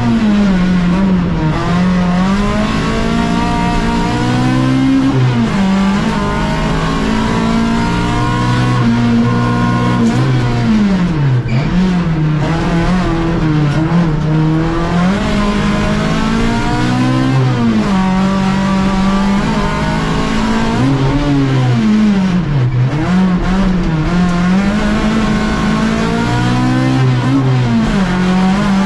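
Fiat Uno race car's engine heard from inside the stripped cabin, pulling hard with its revs climbing and then dropping away again every few seconds as the driver lifts off and gets back on the throttle through the slalom.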